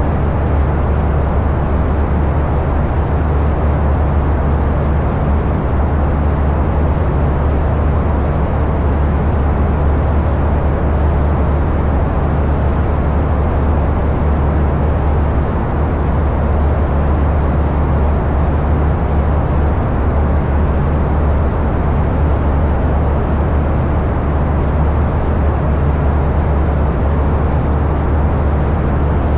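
Light aircraft in flight: a loud, unchanging low engine and propeller drone.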